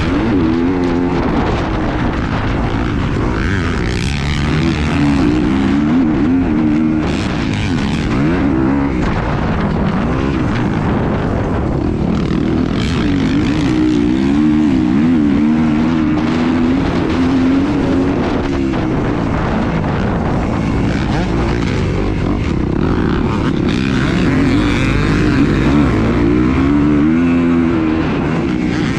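A motor running with a drone whose pitch keeps wavering up and down, over heavy wind rumble on the microphone.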